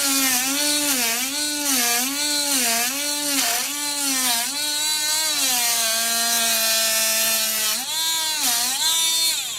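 Handheld power tool running under load while cutting old sealant out of ALC panel joints, its motor pitch dipping and recovering about every 0.7 s, holding lower and steady for a couple of seconds, then wavering again before it stops near the end.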